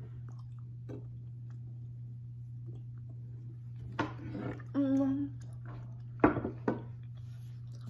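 A person chewing a soft pistachio sweet with the mouth closed, with faint wet mouth sounds. About five seconds in comes a short hummed "mmm" of tasting, followed by a few sharp mouth smacks.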